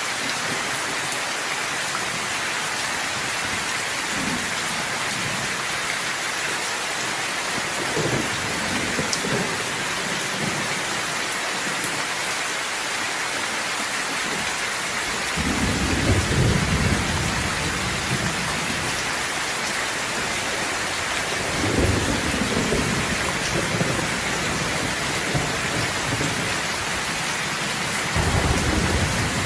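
Steady rain with thunder rolling several times: a faint rumble about eight seconds in, the loudest roll about halfway through, another a few seconds later, and a new one starting near the end.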